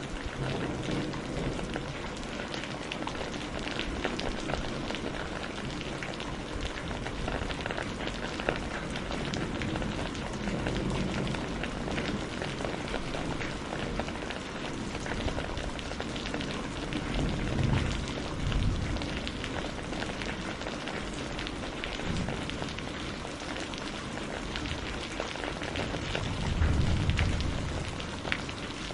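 Steady rain mixed with a wood fire crackling: a continuous hiss dotted with many small sharp pops. A low rumble swells up twice, about two-thirds through and again near the end.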